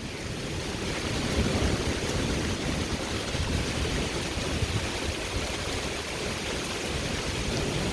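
Heavy wind-driven rain pouring down in a severe thunderstorm, with strong wind gusts rumbling on the phone's microphone. The noise swells slightly about a second in and then holds steady.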